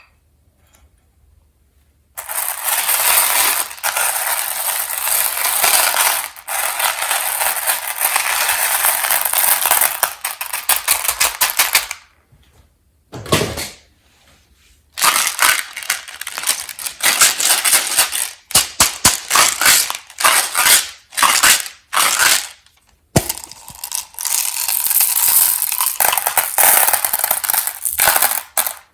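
Peanut M&M's and their candy pack handled close to the microphone: a dense crackling clatter that runs in long stretches, breaking into short rapid bursts in the middle.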